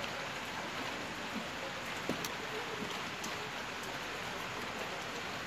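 Steady light drizzle of rain, an even patter, with a few faint clicks about two to three seconds in.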